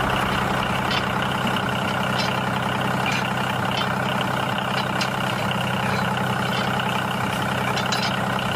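An engine idling steadily, with faint light clicks over the hum.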